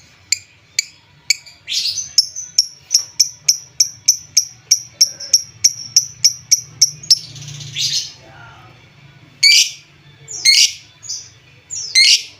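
Lovebird chirping: a fast string of sharp, high chirps, about four a second, then a few longer, harsher calls spaced out over the last few seconds. This is a lure call meant to rouse a sluggish lovebird into calling.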